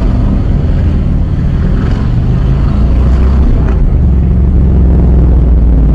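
Motorcycle engines running loudly with a deep, steady drone. The engine note shifts about two seconds in and again near four seconds.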